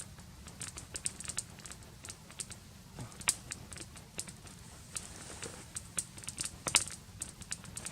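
Dry kindling and bark crackling: an irregular run of small sharp clicks, with louder snaps about three seconds in and near seven seconds.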